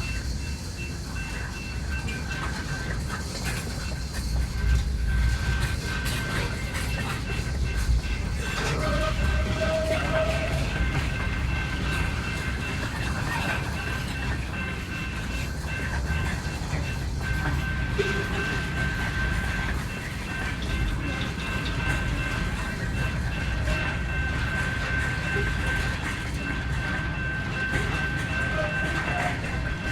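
BNSF freight train rolling steadily with continuous rumble and wheel clatter over rail joints, and a thin steady high-pitched tone running through it.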